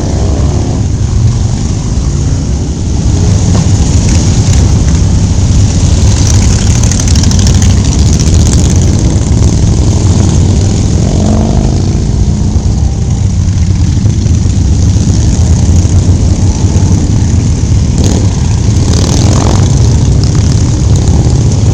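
Motorcycle engine running during a ride: a loud, steady low drone with no marked revving.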